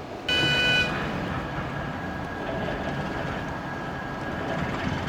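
A brief horn toot lasting about half a second, a third of a second in, then the steady rumble of a train running on the rails.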